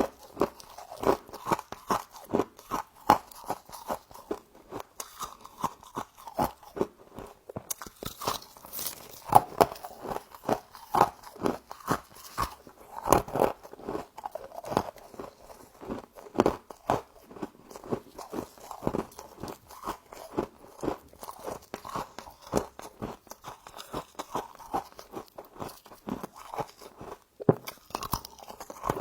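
Close-up crunching of frost from a humidifier being bitten and chewed, a rapid run of crisp icy crunches with louder bites every second or so.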